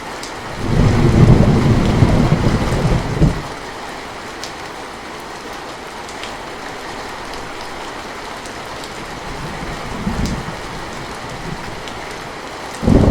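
Steady rain with rolls of thunder: a loud low rumble about a second in that lasts a couple of seconds, a fainter one around ten seconds in, and another starting at the very end.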